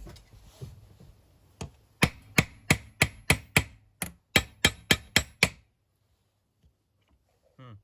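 One knock, then about a dozen sharp hammer blows on metal in quick succession, roughly three a second, each with a brief ring. This is work on the mower's blade-clutch bearing, which is being replaced.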